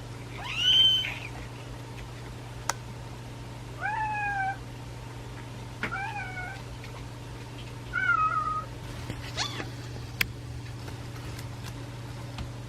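Kittens mewing: about five separate high mews, each rising then falling, the first and loudest about half a second in, with a couple of sharp clicks between them over a steady low hum.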